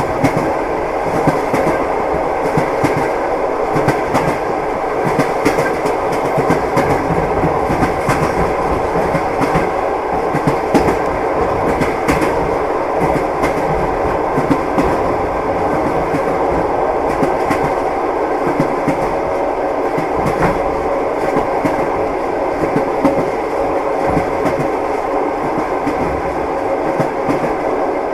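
Railway carriage running on the rails: a steady rolling rumble with the irregular clickety-clack of wheels over rail joints.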